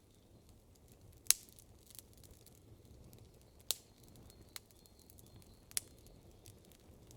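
Wood campfire crackling, with sharp pops about 1.3, 3.7 and 6 seconds in, the first the loudest, and fainter snaps between them over a low steady hiss of the burning fire.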